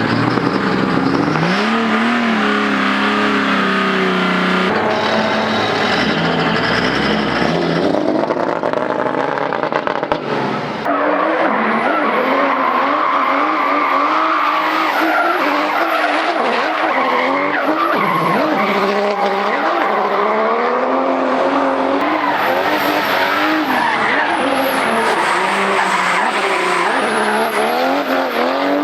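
Mercedes-Benz OM606 inline-six turbo-diesel in a BMW E28 drift car, revving up and down through drifts over squealing tyres. The sound changes abruptly several times, as if cut between shots.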